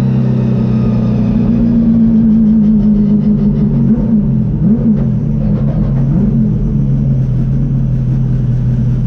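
Holden Torana touring car's V8 engine heard from inside the cabin, running at fairly low, steady revs with a few short rises and falls in pitch as the throttle is blipped and eased.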